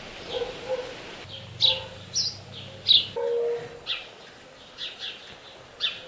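Small birds chirping: a string of short, high, falling chirps, one or two a second, with a few lower, longer notes among them.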